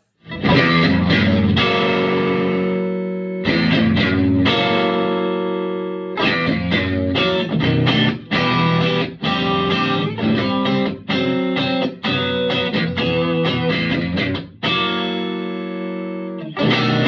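Electric guitar played through a Vintage Sound Amp: full chords struck and left to ring, then a run of quicker rhythmic strumming in the middle, then more ringing chords near the end.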